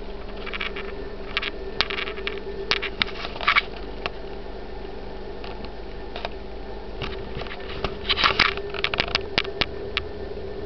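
A kitten playing: scattered sharp clicks and short scratching scuffs of paws and claws, coming in three flurries, over a steady low hum.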